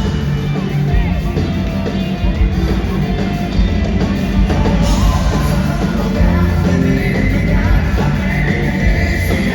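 Live rock band playing loudly through a concert PA, with a singing voice over amplified guitars and drums.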